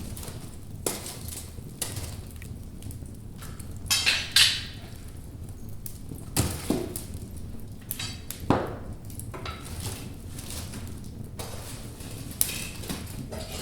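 Burning logs in a fireplace crackling, with irregular sharp pops over the low rumble of the flames. The loudest is a quick pair of pops about four seconds in, with more single pops scattered through.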